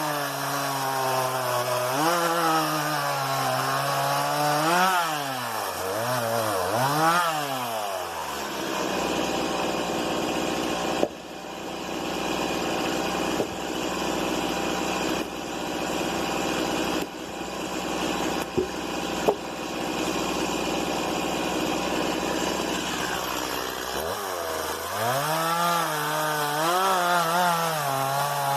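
Stihl MS 170 two-stroke chainsaw at high revs, its pitch wavering as it works through wood. About eight seconds in it drops to idle, with a few knocks, then revs up again near the end.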